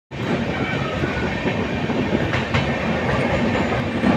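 Passenger train running through a tunnel, heard from inside the coach: a steady rumble of wheels on rail with clattering over the joints.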